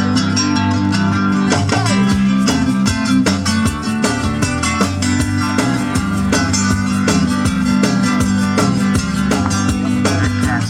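Instrumental music with a strummed acoustic guitar and steady bass notes, in an even rhythm with no singing.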